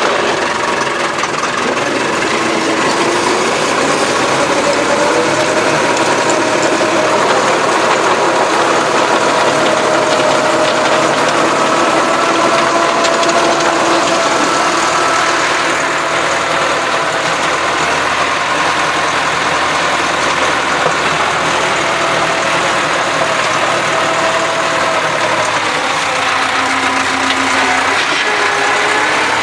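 Massey Ferguson tractor engine running steadily as it works a field, its note slowly rising and falling.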